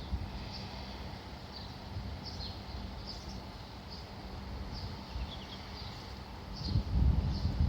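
Small birds chirping, short high calls scattered every half second or so, over a low rumble that grows louder near the end.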